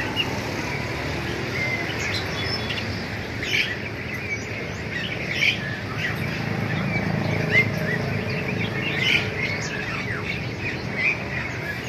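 Many small caged songbirds chirping and calling at once, short sharp chirps overlapping one another throughout, over a steady low background noise.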